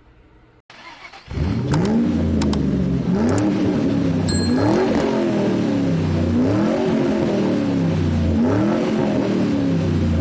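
Car engine revving over and over, the pitch climbing and dropping back about every second and a half, starting suddenly about a second in.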